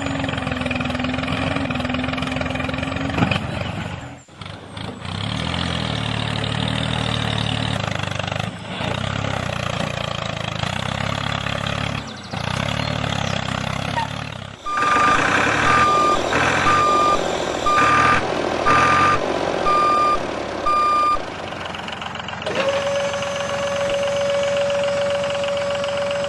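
Heavy diesel vehicle engine running with a low pulsing rumble, then a reversing alarm beeping about once a second for several seconds. Near the end a steady high whine takes over.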